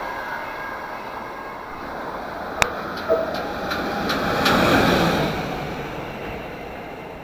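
Noise of a passing train fading away, then a single electric locomotive running light passes by. Its rumble swells to a peak about five seconds in and fades again, with a run of sharp clicks as it comes close.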